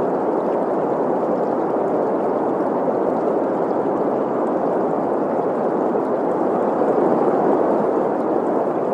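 Synthetic green noise, a steady even hiss centred in the middle range with little deep bass or treble, mixed with the sound of a running stream.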